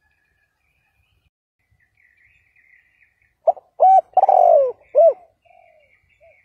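Spotted dove cooing: after a quiet first half, a phrase of about five coos, the middle one longer and falling in pitch, tailing off in a couple of faint short notes.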